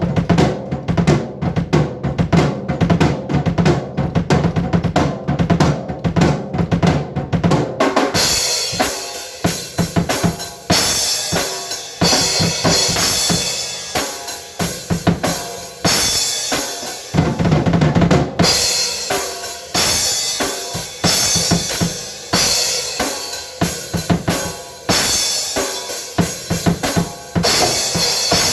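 Drum kit being played: quick, dense strikes on the low drums for the first several seconds, then cymbals join over the snare and bass drum, with another run on the low drums a little past halfway.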